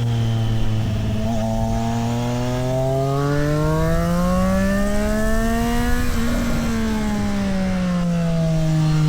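Triumph Street Triple 765 RS inline-three engine under way. The engine note holds steady, then climbs smoothly for about three seconds. It breaks up briefly about six seconds in, then falls steadily as the revs drop.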